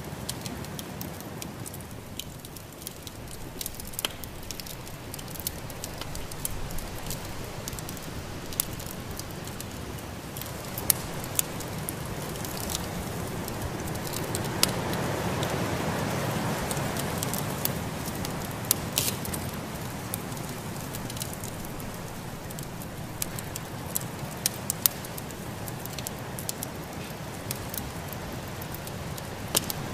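Wood fire in a fireplace crackling, with frequent sharp pops over a steady rushing background that swells for a few seconds around the middle.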